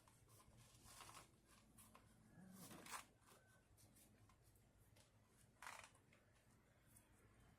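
Faint rustles and scrapes of parts being handled, over near silence: a short one about a second in, the loudest about three seconds in, and another near six seconds.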